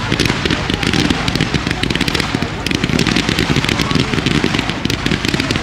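Display fireworks firing in rapid, continuous succession: a dense barrage of shots and crackling, with heavy low booms underneath.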